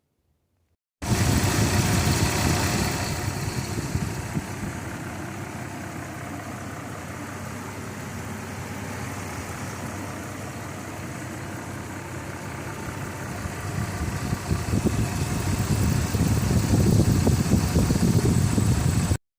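Dodge Nitro's 4.0 V6 engine running with the repaired harmonic balancer fitted. It is louder at first, settles lower for several seconds, then grows louder again near the end.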